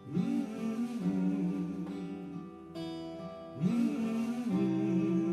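Folk song played live on acoustic guitar, with a voice sliding between notes and then holding a long note.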